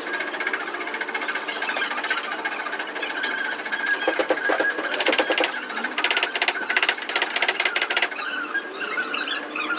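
A power tool hammering rapidly and evenly, heaviest in the middle of the stretch, stopping about eight seconds in.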